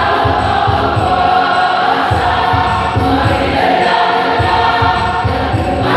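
A church choir rehearsing, many voices singing a hymn together in held notes, over a steady low beat.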